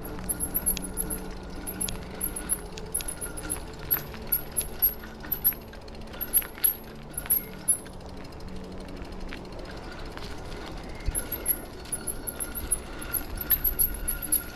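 Bicycle ridden over a rough woodland path, rattling with irregular sharp clicks and knocks. Clusters of very high-pitched chirps run over it, pausing in the middle and returning near the end.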